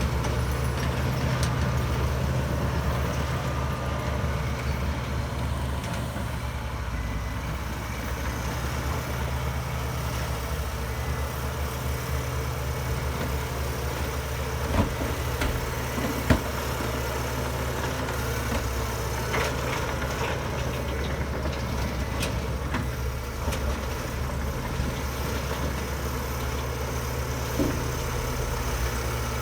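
Heavy diesel engine of earthmoving machinery running steadily, with two sharp metallic knocks about halfway through and a smaller one near the end.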